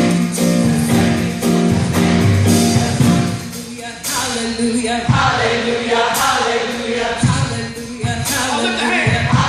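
Gospel choir singing with a band. The first few seconds are held instrumental chords, and the singing comes in about four seconds in over a steady beat.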